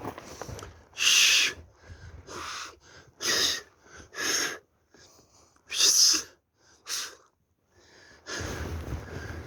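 Six short, breathy huffs of air, roughly a second apart, the first and the fifth the loudest.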